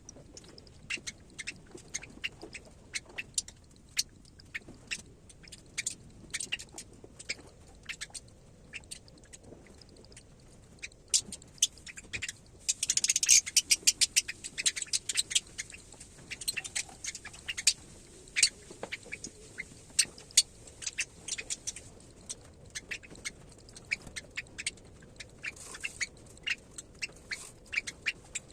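Parrot chick cheeping: many short, high-pitched peeps and clicks, coming thick and loud in a burst about halfway through.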